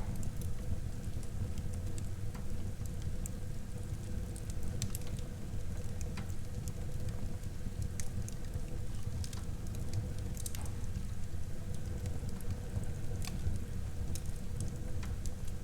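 Wood fire burning in a fireplace: a steady low rumble of flames with scattered, irregular crackles and pops from the burning wood.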